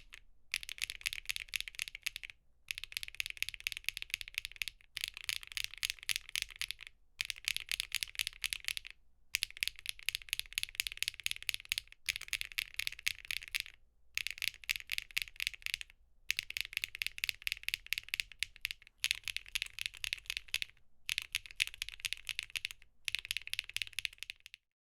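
Fast typing on a mechanical keyboard: rapid, bright clacking keystrokes, heard in stretches of about two seconds, each broken off by a brief gap.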